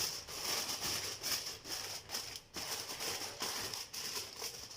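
Biryani pot on the stove, sizzling faintly with irregular small crackles and clicks.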